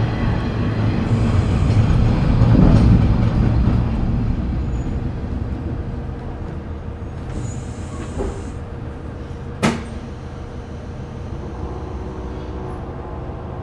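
KiHa 30 diesel railcar and its DMH17 diesel engine slowing to a stop, the rumbling running noise dying away to a steady idle. A small knock comes about 8 seconds in, then a single sharp bang just before 10 seconds.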